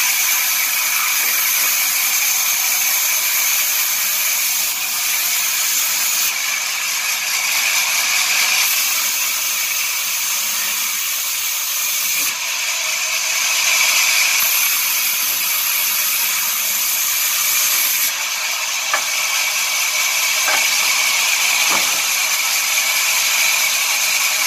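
Sawmill saw running and cutting wood: a steady, high-pitched hiss with a whine. Its tone shifts abruptly several times.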